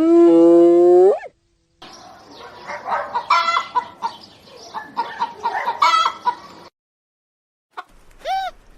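A rooster crows once, one held call that rises at the end, then hens cluck for about five seconds. Near the end a short hooting call begins.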